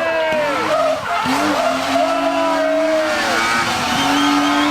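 Drift car's engine revving hard with its tyres squealing as it slides. The engine note drops about a second in, then climbs again and is held high.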